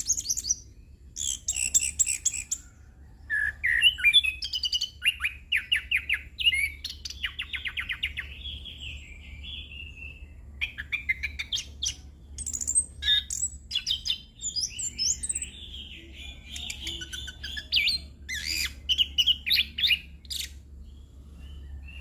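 Orange-headed thrush (anis kembang) singing continuously in a long, varied rolling song: rapid runs of notes, trills and slurred whistles, full of mimicked calls of other birds. A faint steady low hum lies underneath.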